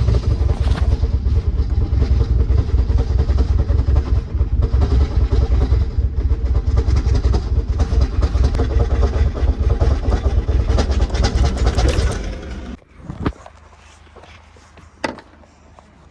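Audi TT MK1's turbocharged engine running with a rapid heavy knocking from a failing bottom end after oil loss, the knocks growing denser until the engine stops suddenly about twelve seconds in: a connecting rod has broken out through the block. Two sharp knocks follow in the quiet.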